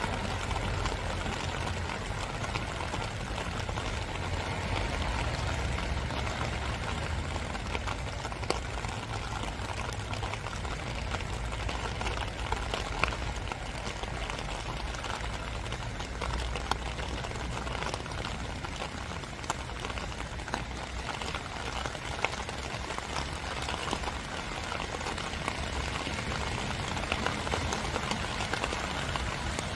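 Steady spring rain falling, an even hiss with scattered louder drops ticking now and then, over a low steady rumble.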